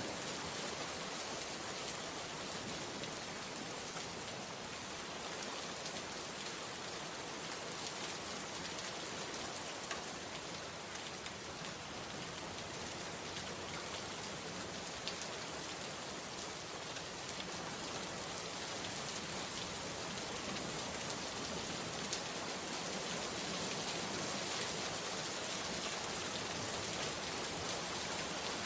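Steady rain falling, with the patter of individual drops striking a surface heard through it.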